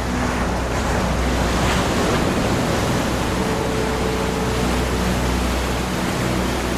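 Ocean surf: a continuous wash of waves, with one swelling and breaking about one to two seconds in.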